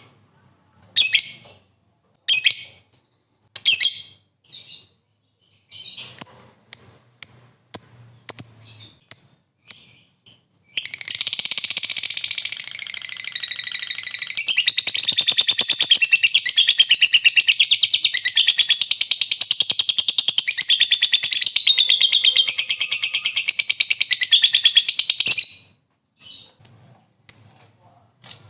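Lovebird calling: short shrill chirps about once a second for the first ten seconds, then one long unbroken rapid chattering trill of about fifteen seconds, then a few chirps again. The long chatter is the 'ngekek panjang' prized in fighter lovebirds.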